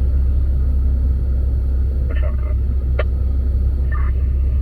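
Steady low rumble of a motor vehicle, as heard from inside or beside the car, with a single faint click about three seconds in.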